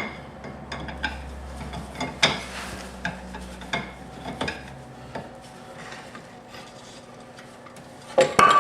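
A floor jack being let down under the car, with scattered metal clinks and knocks and a low steady hum that stops about five seconds in. Near the end comes a loud metal clank that rings on briefly.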